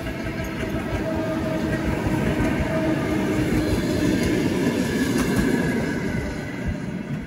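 A train running past, its noise swelling to a peak about four to five seconds in and then easing off.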